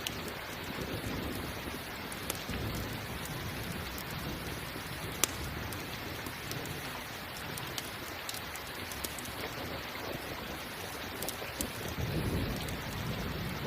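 Steady rain with the scattered pops and crackles of a campfire, one pop louder about five seconds in. A low rumble of thunder swells near the end.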